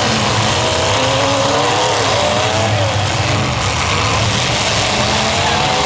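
Demolition derby car engines revving, their pitch rising and falling as several cars run at once.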